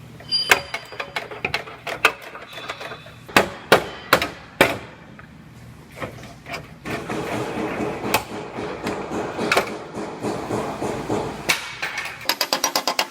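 Hammer blows on car body sheet metal: a run of sharp separate strikes, then a stretch of busier rattling work. A fast, even pulse, about eight a second, starts near the end.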